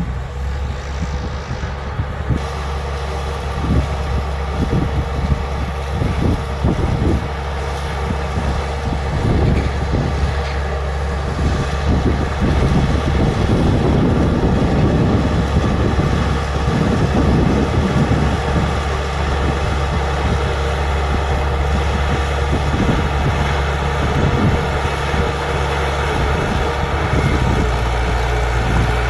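Bulldozer's diesel engine running steadily under load, with frequent short knocks and rattles. It gets louder and busier about twelve seconds in.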